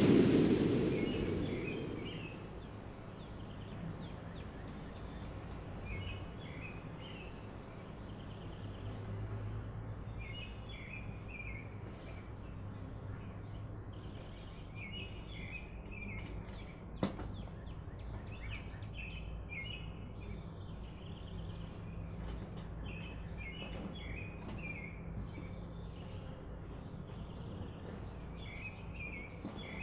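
Quiet ambience in which a bird calls again and again, a short run of chirps every two to four seconds, over a low steady hum. A louder sound dies away over the first two seconds, and a single sharp click comes about 17 seconds in.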